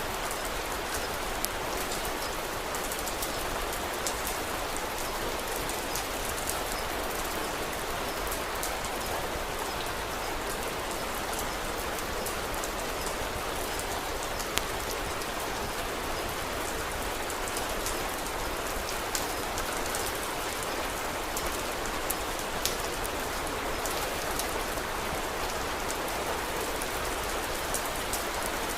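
Steady rain falling, an even hiss with scattered sharp little clicks.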